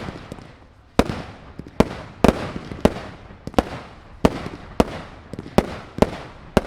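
Fireworks display: a rapid series of sharp bangs, about three every two seconds, a few coming in quick pairs, each trailing off in a fading echo.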